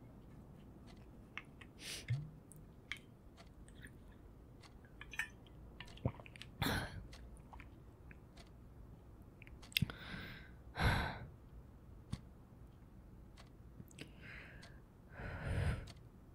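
Faint, close-up chewing of food, with many small mouth clicks scattered through it and a few short breaths.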